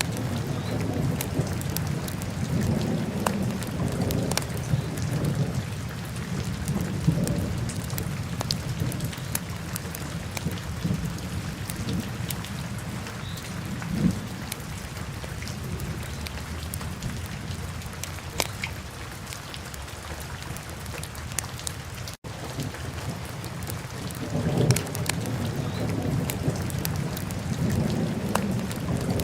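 Wood fire in a fireplace crackling: scattered sharp pops and snaps over a steady low rumble that swells now and then. The sound cuts out for an instant about two-thirds of the way through.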